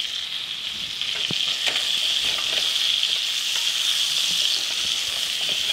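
Chopped onion and garlic sizzling steadily in hot fat in a stainless steel pan alongside browned chicken legs, with a few light clicks.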